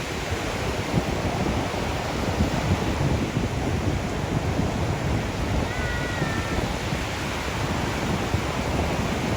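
Ocean surf washing steadily, with wind buffeting the microphone. A brief faint high cry sounds about six seconds in.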